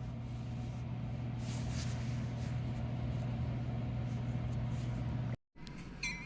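GE C44-9W diesel-electric locomotive's 16-cylinder diesel engine running with a steady low hum. The sound cuts off abruptly about five seconds in and gives way to a quieter passage of short, high chirping tones.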